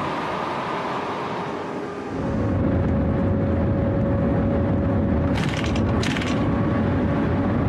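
A maglev train rushing past on its elevated guideway, then, after a cut about two seconds in, louder deep rumbling noise inside the train's cabin at speed with a steady hum. Two short high hisses come a little past halfway.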